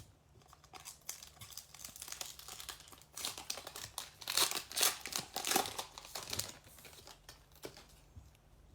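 Foil wrapper of a baseball card pack crinkling and tearing as it is pulled open by hand, in a run of short rustles that grows loudest about halfway through.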